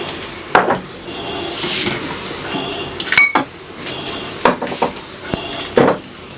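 Glass jars and food containers being handled and set down, making a series of clinks and knocks, about six in all, one of them a ringing glass clink about three seconds in.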